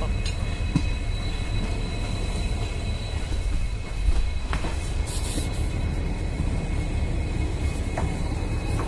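Train rolling along the track with a steady low rumble and a few scattered clicks from the wheels and rails.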